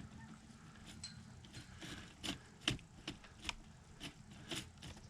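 A handful of sharp, irregular metallic clicks and clinks from hand tools and parts being handled on a snowmobile engine during reassembly.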